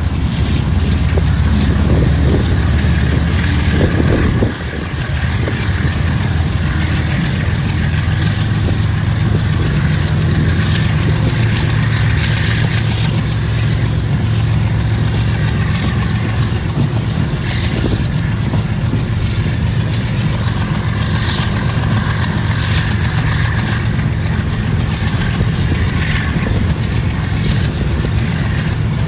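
Passenger train coach running at speed, heard at an open window: a steady low rumble with the clatter of wheels on the rails. The level drops a little about four and a half seconds in.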